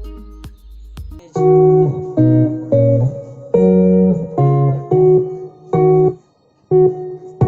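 Guitar music played through the Zebronics Juke Bar 4 2.1-channel soundbar and subwoofer for an audio test. Soft plucked notes at first, then about a second in loud guitar chords start, struck in a steady rhythm with a short break near the end.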